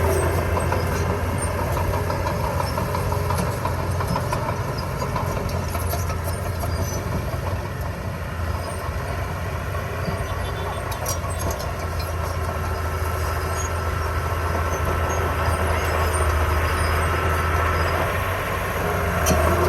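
Diesel engine of heavy construction machinery running steadily, with a strong low hum and scattered light clicks and clanks.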